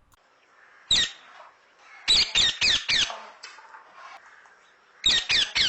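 Parrot squawks: one high, wavering call about a second in, then two quick runs of about four calls each.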